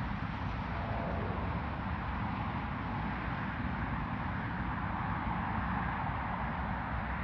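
Steady rushing rumble of jet airliner engines, swelling slightly about halfway through.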